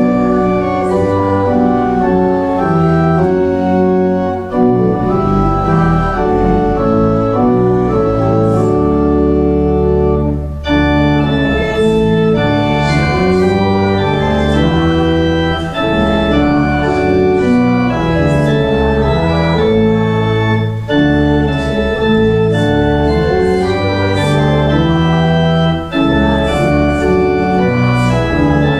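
Church organ playing a hymn in full sustained chords, the harmony moving every second or so, with brief breaks between phrases about a third of the way in, near the middle and twice toward the end.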